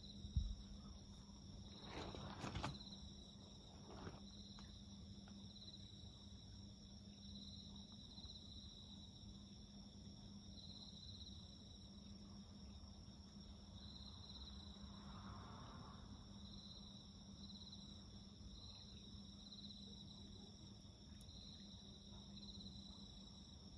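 Insects chirping faintly in a steady high-pitched trill that swells in repeated pulses, over a faint low hum. A garden wood fire crackles, with a few sharp pops in the first few seconds.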